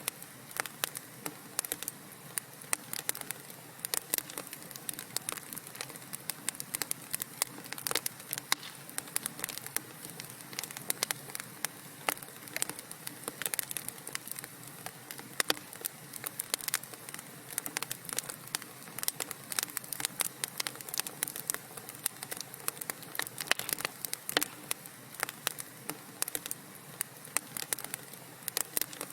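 Wood fire burning in a fireplace and crackling: many sharp pops and snaps at irregular intervals over a steady hiss.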